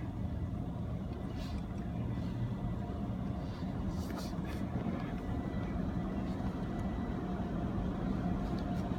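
Steady low hum of a car running.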